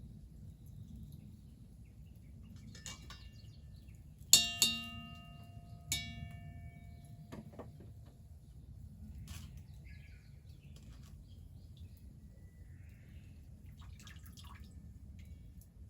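Three sharp clinks, two close together about four seconds in and one more a second and a half later, each ringing on briefly with a clear pitched tone, over a low steady background rumble and a few faint bird chirps.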